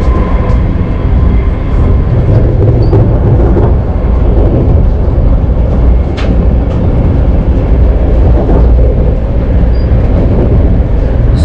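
Interior noise of a high-speed passenger train running at full speed: a steady, loud low rumble inside the carriage, with one short click about six seconds in.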